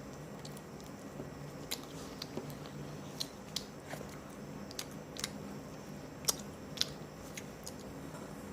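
Close-up eating sounds: a person chewing and biting into crispy fried chicken, with scattered sharp crunches and wet smacks over a steady low hum.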